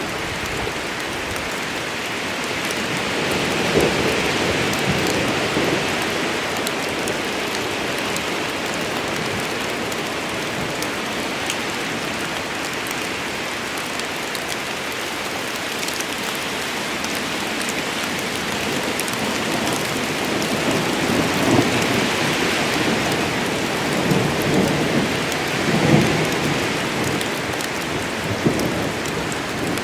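Steady heavy rain of a rain storm, a continuous hiss of falling drops. It swells louder twice, around a few seconds in and again in the last third.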